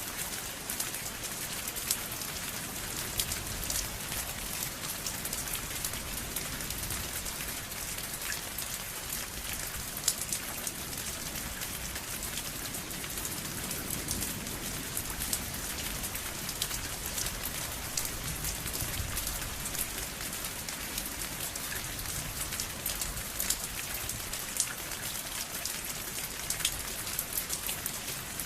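Steady rain falling on a surface, an even hiss dotted with many close, sharp drop ticks.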